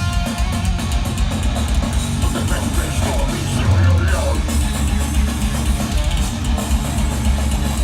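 Live rock band playing loud heavy rock or metal: electric guitars over a drum kit.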